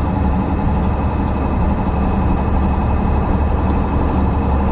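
Pickup truck's engine running, heard from inside the cab as a steady, loud low-pitched drone.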